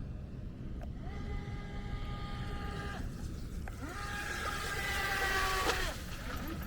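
RC jet ski's battery-powered motor and jet pump whining in two throttle bursts, the second louder, rising in pitch as it opens up and cutting off sharply. A steady low rumble of wind and water lies underneath.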